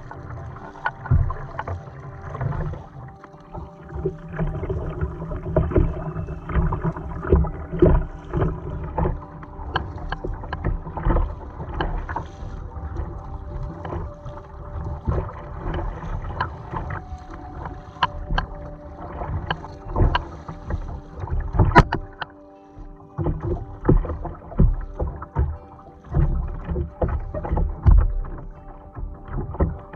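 Kayak paddling: the paddle blades dip and splash in a rough rhythm of about one stroke a second, with irregular knocks of the paddle against the hull and a sharp knock about 22 seconds in. A steady hum of several tones runs underneath.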